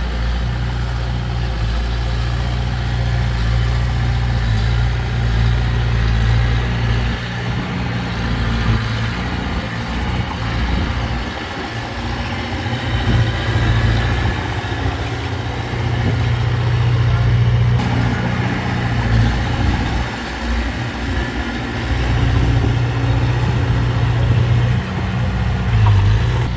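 Diesel engine of heavy earthmoving equipment, a bulldozer or dump truck, running steadily with a deep low hum.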